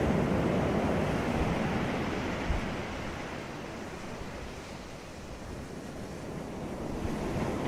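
Sea waves on a beach: surf washing loudly at first, easing off about halfway through, then building again as the next wave comes in near the end.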